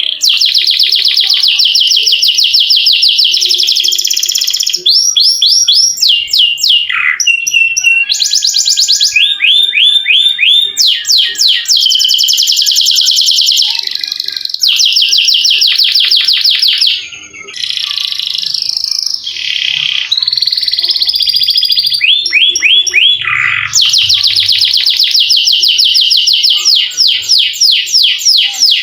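Domestic canary singing in long rolling trills: fast runs of rapidly repeated notes, with quick falling sweeps between phrases and a brief pause about seventeen seconds in.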